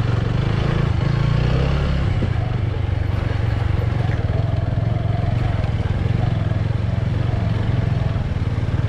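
A motorbike engine running steadily while riding, its low drone holding an even level.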